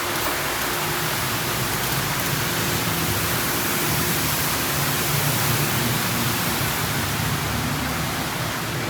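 Car wash spot-free rinse water spraying steadily onto the car, heard from inside the cabin as an even rushing hiss with a low machine hum underneath.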